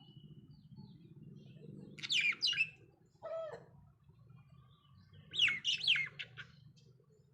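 Budgies calling: two quick bursts of sharp, falling chirps, about two seconds in and again about five seconds in, with a shorter, lower call between them over a faint low hum.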